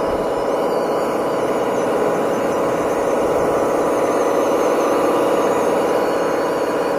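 A small electric motor running steadily with a gear whine.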